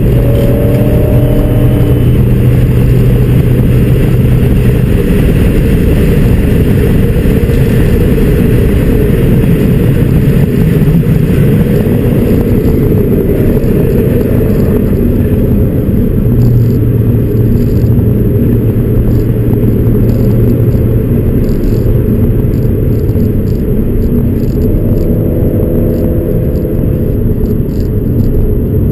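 2004 Audi S4's 4.2-litre V8 running through aftermarket JHM headers and a Fast Intentions free-flow exhaust as the car drives, a loud, steady engine drone with small changes in pitch.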